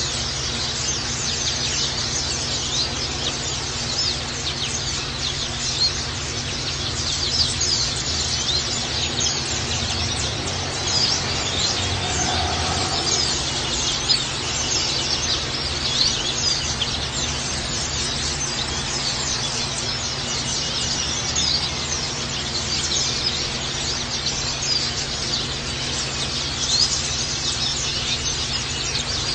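White-eyes (pleci birds) chirping rapidly and without pause, many short high twittering notes overlapping, over a steady low background hum.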